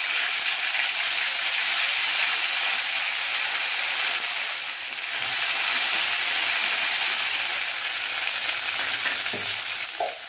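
Ginger-garlic paste sizzling in hot oil in a nonstick kadai, stirred with a wooden spatula: a steady frying hiss.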